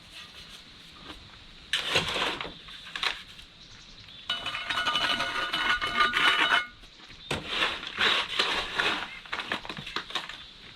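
Metal scraping and clinking against metal in three long passes, with a ringing edge, typical of a tool working wet concrete against a steel car rim.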